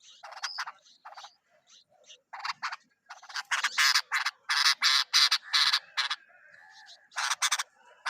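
Bulbuls giving short, harsh, raspy calls in quick runs, getting louder and more frequent from about three seconds in. A brief thinner, steadier note comes near the end.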